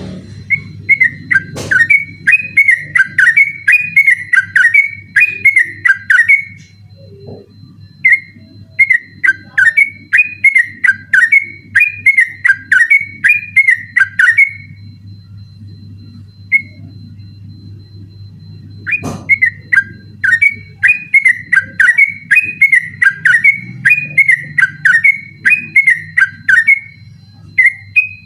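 Yellow-vented bulbul (trucukan) singing in the fast 'ropel' style: long runs of quick, bright, bubbling notes in three bursts with pauses between, over a steady low hum.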